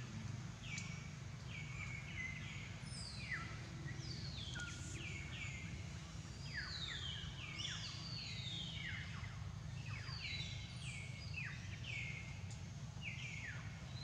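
Several birds singing, a dense chorus of repeated whistled notes that each fall sharply in pitch, over a steady low background rumble.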